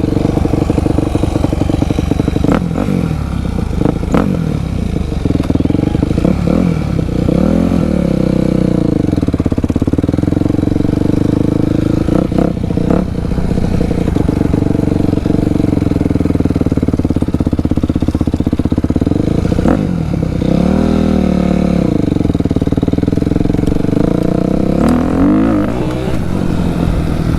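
Dirt bike engine running loudly under riding, its revs climbing and dropping several times, most clearly about eight seconds in, around twenty-one seconds and near the end. A few sharp knocks and clatters sound in between.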